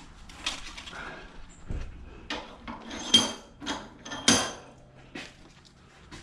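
Scrap metal pieces clanking and knocking as they are handled, a string of sharp knocks, the two loudest near the middle ringing briefly.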